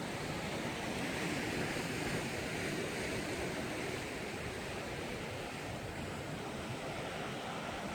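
Sea waves breaking against a rocky shore, a continuous rushing wash of surf.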